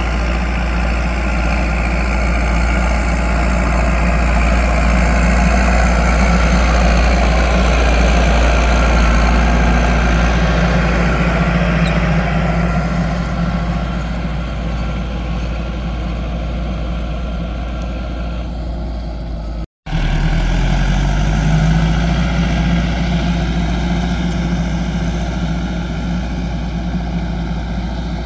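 Landini 9080 tractor's diesel engine running steadily and loud while ploughing. The sound drops out abruptly about two-thirds through, then the engine picks up again with a short rise in pitch.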